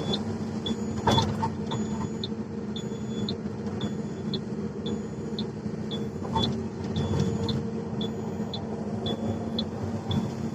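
Diesel engine of heavy earthmoving machinery running steadily, with a short high-pitched beep repeating about twice a second and a couple of brief knocks.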